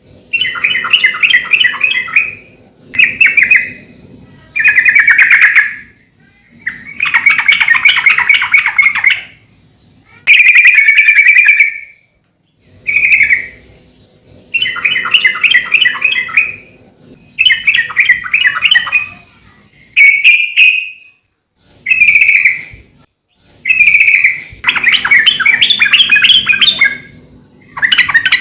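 Yellow-vented bulbul (trucukan) singing loud, bubbly, chattering phrases of one to two seconds each, repeated after short pauses, about a dozen in all.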